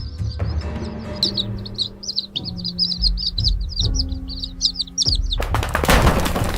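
Bird chirping in a quick run of short, high chirps over background music with a low beat. About five seconds in, a loud rushing noise takes over for about a second.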